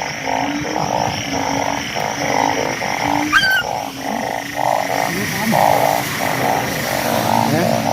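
Breeding chorus of banded bullfrogs (Asian painted frogs) calling after fresh rain: many overlapping croaks pulsing about twice a second. A brief rising chirp cuts in about halfway through.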